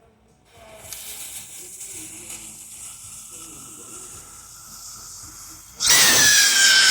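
Screaming Crackling Rocket bottle rocket's fuse hissing steadily for about five seconds after lighting. Near the end the rocket launches with a loud, shrill scream: a whistle whose pitch falls slightly.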